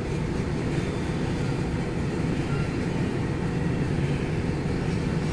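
CSX intermodal freight train rolling past, a steady low rumble with a faint hum underneath.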